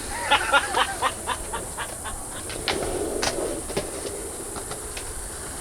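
Skateboard wheels rolling on concrete, clacking over seams and cracks, most densely in the first two seconds. Behind it runs the steady high-pitched drone of cicadas.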